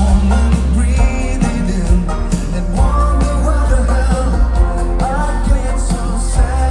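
Live folk-rock band playing a song: a sung lead vocal over a heavy bass line and regular drum hits.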